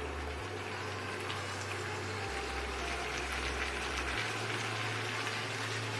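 Chicken and masala gravy simmering and sizzling in a pan: a steady hiss with faint crackles.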